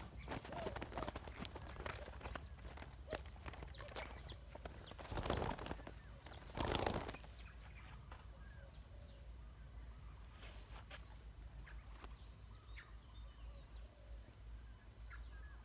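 Outdoor clicking and rustling, with two louder rushes of noise about five and seven seconds in, then quieter with scattered faint bird chirps over a steady high-pitched hum.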